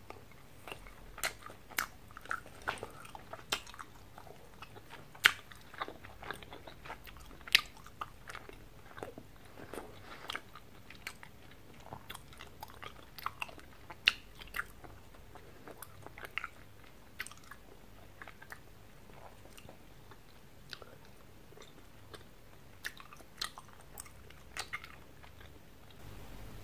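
A person chewing gumballs close to the microphone: irregular mouth clicks and smacks, a few of them sharper and louder.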